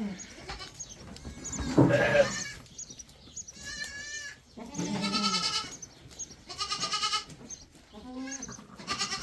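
Goats bleating: a run of about six separate calls at different pitches, the loudest about two seconds in and one with a wavering, quavering pitch near the middle.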